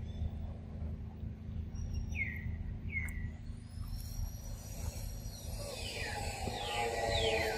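Forest ambience: a bird gives two short downward-sliding chirps, about two and three seconds in, over a steady low hum. Background music comes in near the end.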